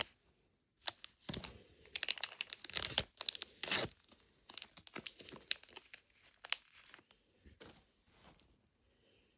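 Small plastic wrapper being torn open and crinkled by hand to get a miniature toy out, in quick irregular crackles that die away near the end.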